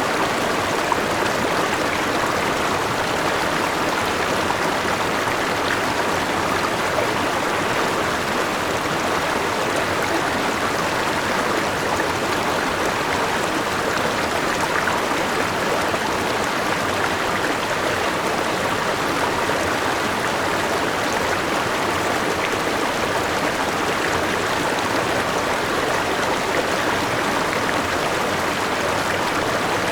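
Forest river with a small waterfall, water rushing and splashing in a steady, even flow.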